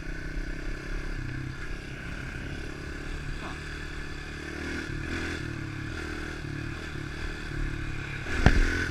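110 cc pit bike's single-cylinder four-stroke engine running while ridden, its note stepping up and down with the throttle. There is one sharp knock near the end.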